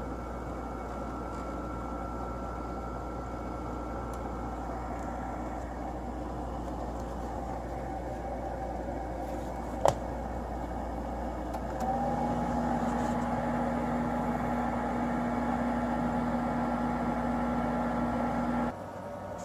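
Sharp 8500 BTU window air conditioner running, its fan blowing steadily with quiet fan motor bearings. A single click comes about ten seconds in, and a couple of seconds later a steady low hum joins and the unit grows louder, until the sound drops away suddenly near the end.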